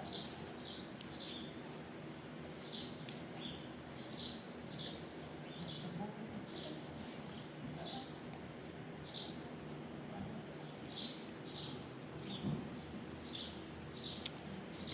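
A bird chirping over and over, short falling chirps about two a second, over faint steady background noise.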